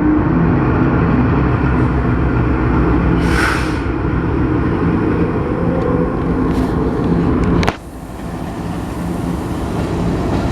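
GE GEU-40 diesel-electric locomotive running under load with a steady low engine rumble as it pulls a train away. There is a short hiss about a third of the way in, and about three-quarters through the sound breaks with a sharp click and drops suddenly, then builds back up.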